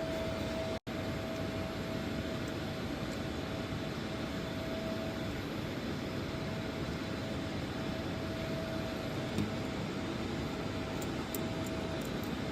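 Steady mechanical drone and hiss with a faint constant tone, the background of aircraft maintenance work. It cuts out for an instant about a second in, and a few faint clicks come near the end.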